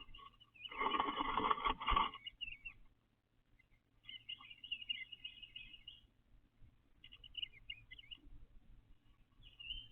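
Bluebird singing short warbling phrases in several bursts with pauses between them. A loud rustle lasting about a second comes near the start.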